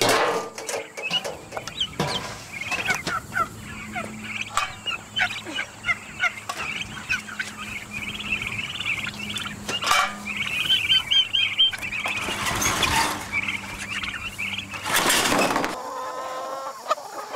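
Chickens chirping and peeping continuously in many short calls. Two louder bursts of noise come near the end.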